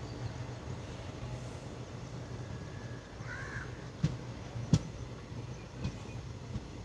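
Low steady rumble of a passenger train rolling slowly into a station, with two sharp knocks at about four and five seconds and a fainter one after. A single short bird call a little after three seconds in.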